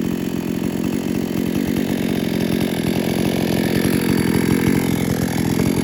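Two-stroke chainsaw engine running at a steady speed, its carburettor's high-speed jet turned out a little to run slightly rich and cool.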